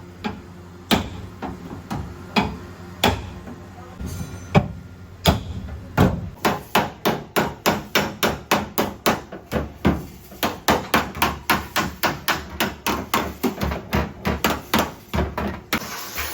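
Hammer blows on car-body sheet metal during dent repair. Scattered strikes about once a second at first, then from about six seconds in a fast, steady run of about three to four blows a second. A hiss starts just before the end.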